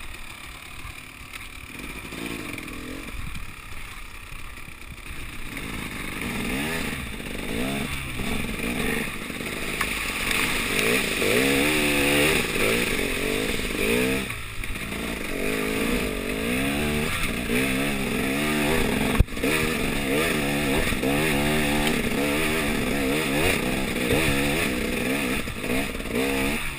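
KTM EXC 300 two-stroke enduro engine revving up and down over and over as the bike is ridden hard off-road, getting louder after the first few seconds. A single sharp knock cuts through about two-thirds of the way in.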